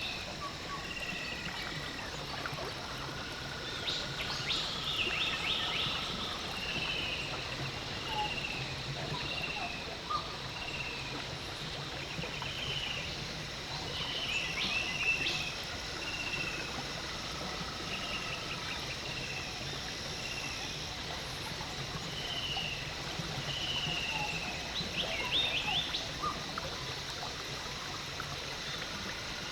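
Birds calling over and over in short, repeated notes, over a low steady hum and a wash of water noise.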